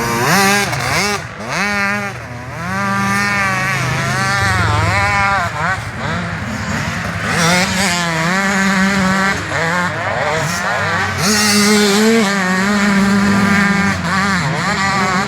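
Several motocross bikes racing, their engines revving up and falling back again and again as riders throttle on and off and shift through the gears, the engines overlapping.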